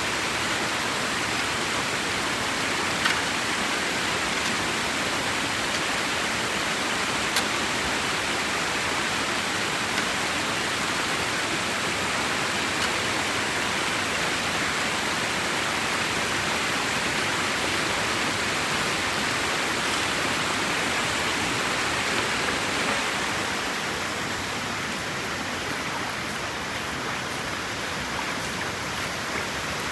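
Water rushing steadily through a drain opened in a clogged dam, with a couple of sharp clicks early on; the rush drops a little in level about three quarters of the way through.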